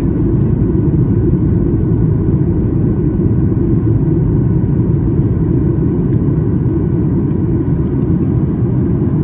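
Steady low rumble of a Boeing 737 MAX 8 airliner in flight, heard inside the passenger cabin: engine and airflow noise.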